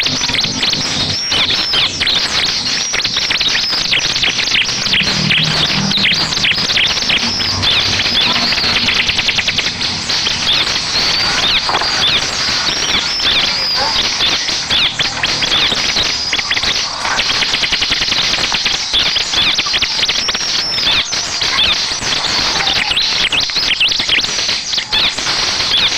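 Bar-winged prinia (ciblek) song: a dense, continuous run of fast, high chirps and trills, with many notes overlapping.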